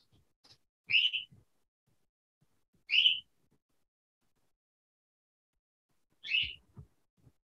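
A bird chirping: three short, high chirps, a second or more apart.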